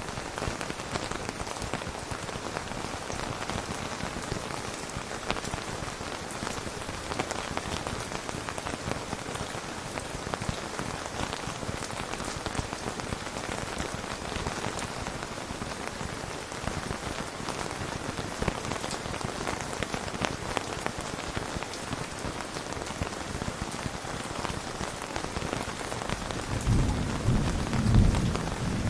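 Steady rain falling, with a low rumble of thunder rolling in near the end.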